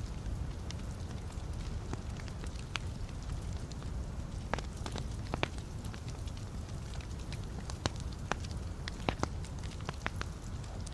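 Wood fire burning in a fireplace: a steady low rumble of flames with irregular crackles and sharp pops from the burning logs, a cluster of louder pops about eight to nine seconds in.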